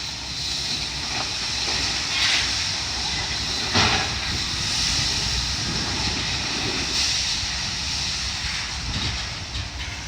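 Demolition site noise: heavy machinery running under a steady hiss of dust-suppression water spray, with a few sharp knocks of debris, the loudest about four seconds in.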